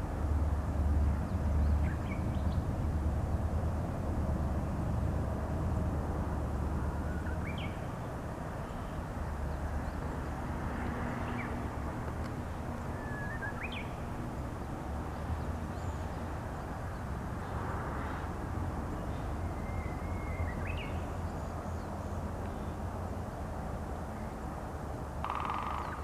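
Wild birds calling: short, rising chirps every few seconds over a steady low rumble.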